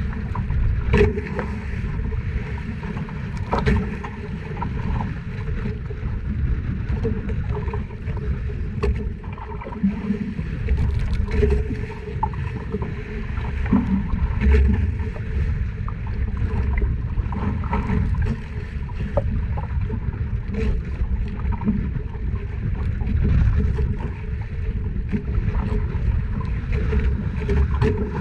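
Small fishing boat out at sea: a steady low rumble of wind and water around the hull, with scattered light knocks and clicks.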